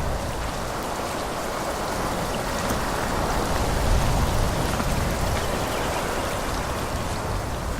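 Wind blowing through forest trees: a steady rushing hiss of foliage with a low rumble that swells and eases, strongest about four seconds in.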